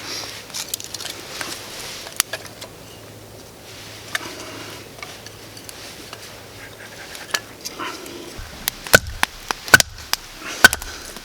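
Small wood fire catching on freshly added wood, crackling with scattered pops, several sharp, louder pops near the end.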